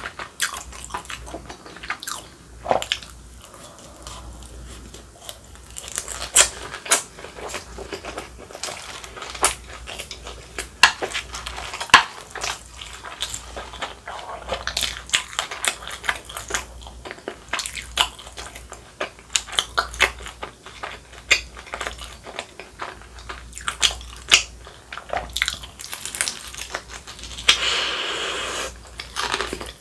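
Close-miked chewing of crisp deep-fried dumplings: many sharp crunches and wet chewing sounds.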